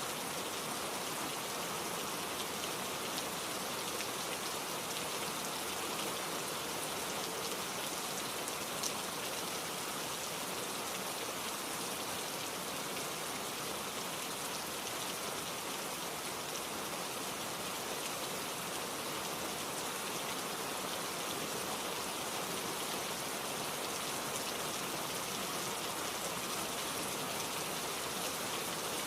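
Steady rain falling on a surface: an even hiss with scattered small drop ticks, unchanging throughout.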